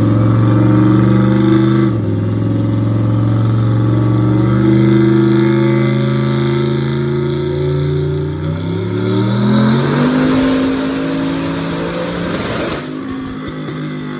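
Turbocharged LS V8 engine of a 1,000-whp Chevy C10 running under load. It holds steady at first, dips in pitch about two seconds in, then climbs in revs with a loud rush of noise before it suddenly drops back near the end.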